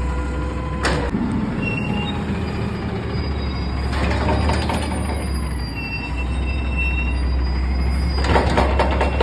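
Front-load garbage truck running steadily, with a sharp knock about a second in and bursts of rattling clatter about four and eight seconds in.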